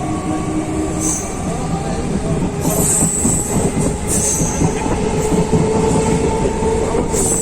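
Suburban electric local train running between stations, heard from on board: a continuous loud rumble and rattle of the wheels on the track. A steady whine comes in about halfway through and holds.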